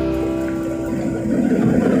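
A held piano-like music chord fading out. From about a second in, the rushing noise of an airliner rises in and grows louder.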